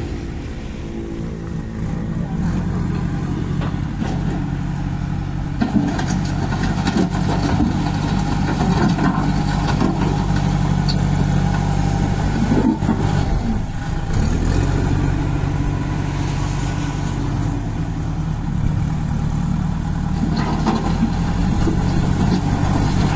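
Kirloskar diesel engine of a JCB 2DX backhoe loader running steadily, its speed and load shifting a few times.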